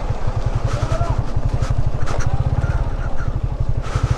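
Motorcycle engine running at low speed with a rapid, even low pulsing. A few short sharp clicks sound over it in the middle and near the end.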